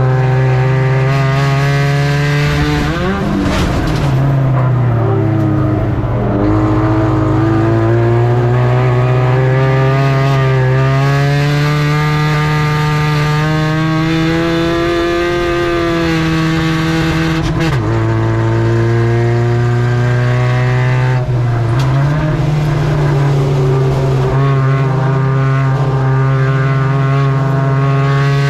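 Spec Ranger race truck's engine running hard, its pitch dropping sharply and climbing back three times as the throttle is lifted and reapplied.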